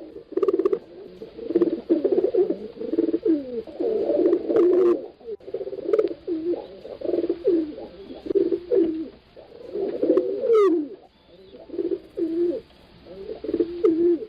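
Pigeons cooing: a near-continuous run of low, overlapping coos from more than one bird, with a few brief clicks among them.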